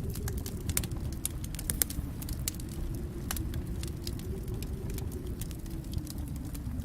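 Fireplace fire crackling: sharp pops and snaps come several times a second over a steady low rumble of the flames, the loudest pop just under two seconds in.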